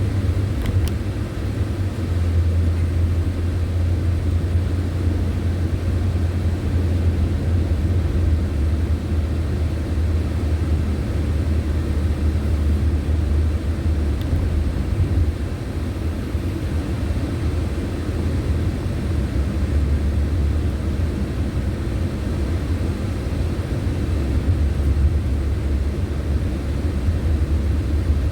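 Steady low road rumble of a car being driven, with engine and tyre noise holding evenly and no sharp events.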